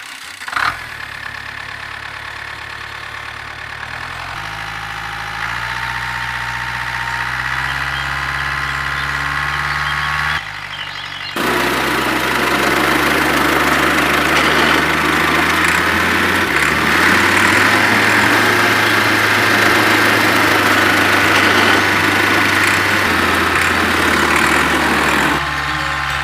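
An engine running steadily, its pitch shifting up and down in steps, with a thin whine above it. The sound drops out briefly about ten seconds in, then comes back louder.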